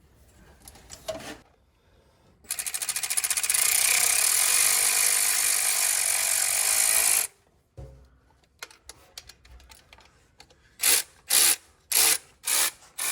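A power tool run in one long burst of about five seconds, starting with a fast ticking, then given several short bursts near the end.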